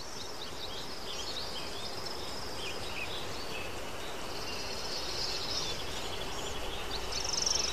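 Outdoor nature ambience: small birds chirping and twittering over a steady background hiss, with a rapid pulsed trill a few times, loudest near the end.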